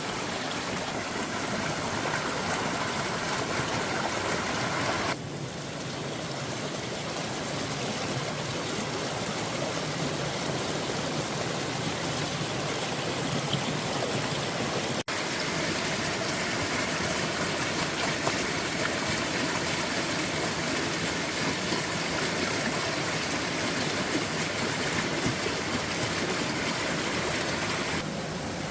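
Steady rush of flowing water, like a stream in spate, with brief breaks about five seconds in and again near the middle.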